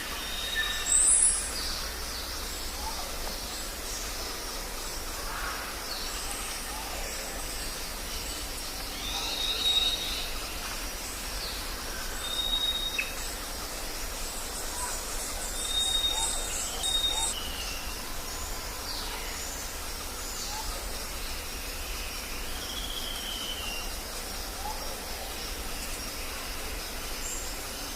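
Tropical forest ambience: birds call with repeated short, high, level whistles, scattered chirps and a few falling notes over a steady high insect hum.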